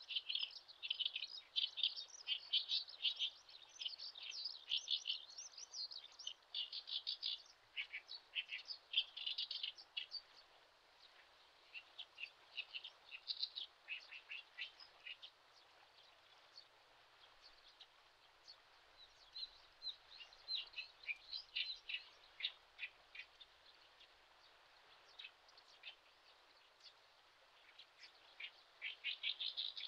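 Birds chirping: quick, high twittering calls in clusters, thickest over the first ten seconds. After a lull in the middle, two more bursts come near 20 seconds and near the end, over a faint steady hiss.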